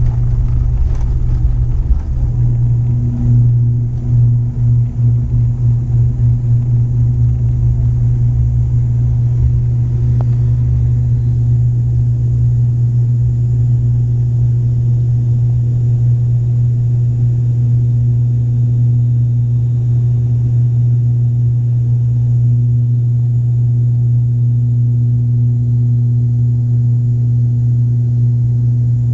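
Airliner engines heard from inside the cabin during takeoff and climb: a loud, steady low drone with a constant hum. The loudness wavers up and down for a few seconds near the start, then settles.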